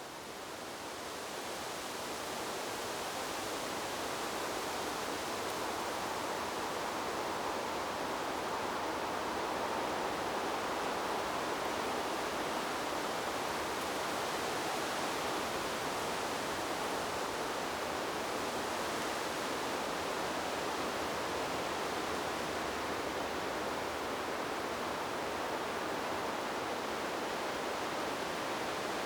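Steady, even rushing noise of a wind-in-the-trees white-noise track, fading in over the first few seconds and then holding level without gusts.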